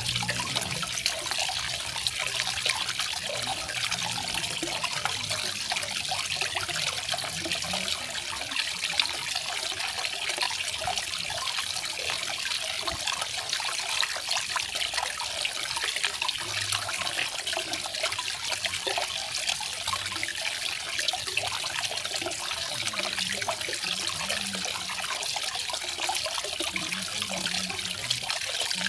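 Garden waterfall: water falling and splashing in a steady, even rush.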